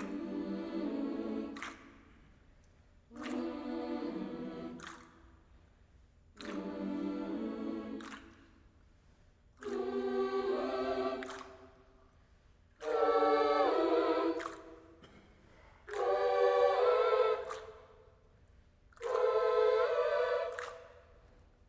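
A cappella layered voices singing a series of wordless held chords, each about two seconds long with short gaps between. The chords step higher in pitch as they go, and each starts and stops abruptly with a click.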